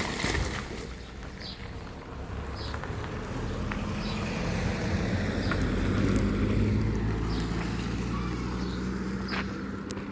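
An engine running with a steady low hum that grows louder toward the middle and then eases off slightly, like a motor vehicle passing close by.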